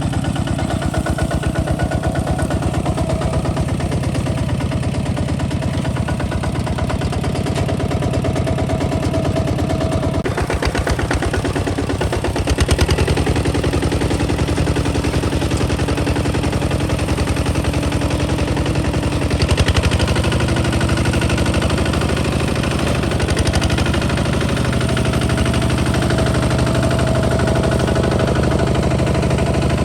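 Kubota ZT155 DI single-cylinder diesel on a two-wheel tractor running steadily with a fast, even firing beat. Its note shifts about ten seconds in, with a couple of brief surges in loudness later on.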